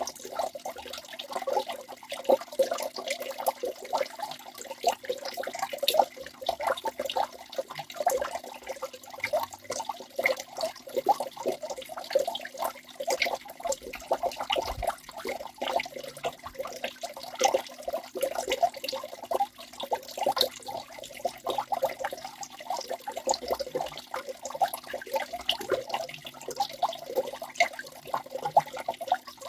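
Waterfall: water rushing and splashing without a break, a dense run of small splashes and gurgles.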